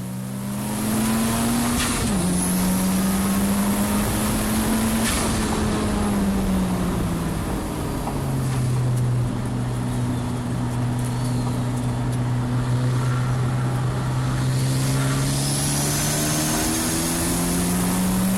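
Turbocharged Honda K20C four-cylinder in a race-prepared 1991 NSX, heard on board during a lap. It revs up with a quick upshift about two seconds in. It slows for a corner from about five to eight seconds, runs low and steady through it, then builds revs again near the end. Steady spray and tyre hiss from the wet track sits under the engine.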